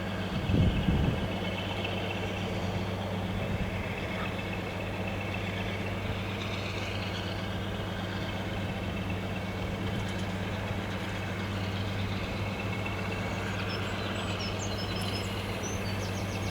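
Diesel locomotive engine idling with a steady low hum, with a brief louder knock about a second in.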